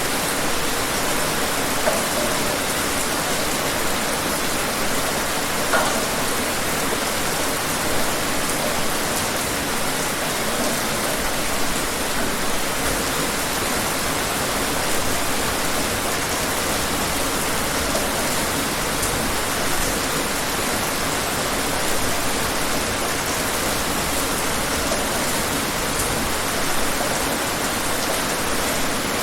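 Steady rainfall, an even hiss of rain on a surface with a few individual drops ticking out of it.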